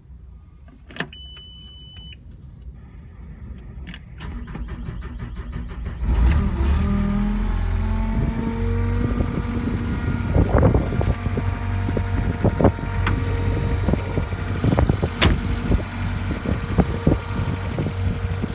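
A 2012 JCB 155 skid steer's diesel engine is started. About a second in, a short single-tone beep sounds. About six seconds in, the engine fires and picks up speed over the next few seconds. It then runs steadily with a rattling of knocks and clatter over it.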